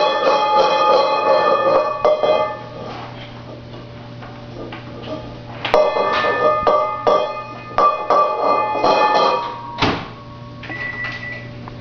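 A bowl being banged repeatedly, each knock leaving a ringing tone. A fast run of strikes is followed by a quieter stretch, then a second run of strikes and one hard knock near the end.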